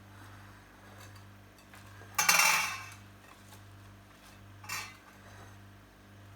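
Kitchen utensil clattering against a dish: one loud clatter about two seconds in that dies away over most of a second, and a lighter clink near five seconds.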